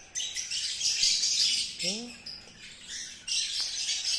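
Small birds chirping and twittering busily in the background, with a brief rising voice sound about two seconds in.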